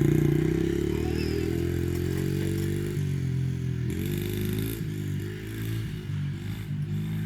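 Small dirt bike engine running, loudest at first and then fading somewhat, with the engine note rising and falling repeatedly from about three seconds in as the throttle is worked.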